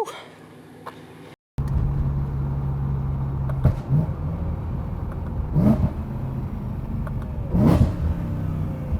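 BMW E92 M3's V8 engine running steadily under way after a quiet first second and a half, with three brief surges in revs about two seconds apart.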